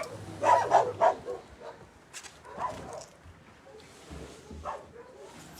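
Dog barking in short barks: a quick cluster about half a second in, then single barks about two and a half and four and a half seconds in.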